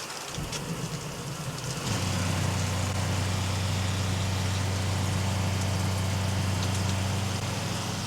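Hot water running from a tap, with a steady low machine hum that comes in faintly and grows much louder about two seconds in as the system starts up under the water demand.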